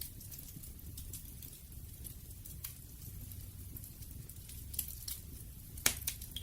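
Bonfire crackling: a low steady rumble with scattered sharp snaps and pops, the loudest one near the end.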